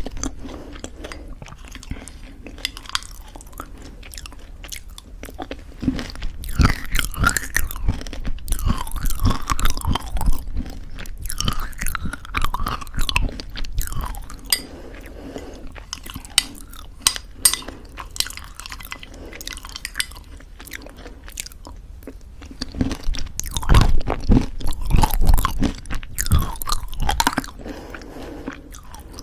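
Close-miked chewing of crunchy homemade granola in thick yogurt: bouts of crisp crunches, one from about six seconds in and another near the end, with quieter chewing between.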